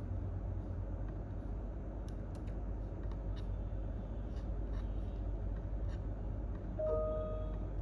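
Steady low room hum with a few sparse, faint computer keyboard clicks. Near the end comes a brief pitched tone, lasting under a second.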